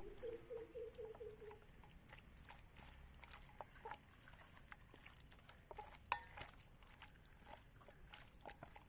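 Faint, scattered clicks and squishes of hands pressing spice paste into raw chicken pieces, with a short wavering call in the first second and a half.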